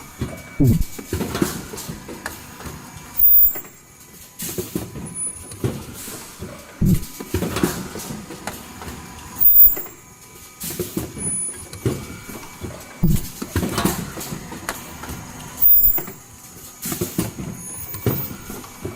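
Automatic N95 cup mask machine running through its cycle, repeating about every six seconds: low thuds, a short loud burst of noise mid-cycle, and many smaller clicks and clatters between.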